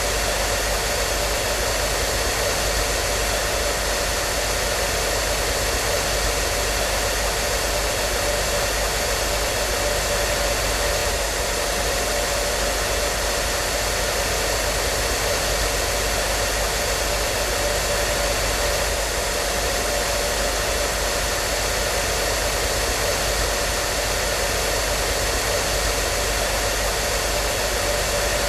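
Hair dryer running continuously, a steady rushing blower noise with a faint constant whine from the motor and no change in level.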